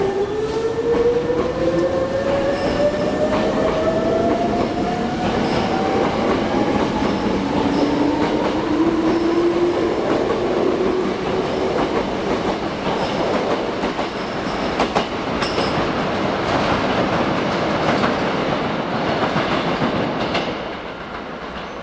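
Hankyu 3300-series electric train pulling out and gathering speed, its traction motors whining upward in pitch, with a second rise a few seconds later. Wheels clack over the rail joints as the cars run past, and the sound drops away near the end.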